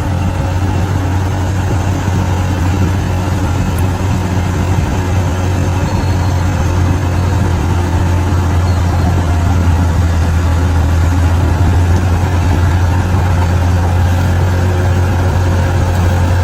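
Bulldozer's diesel engine running steadily with a strong low drone.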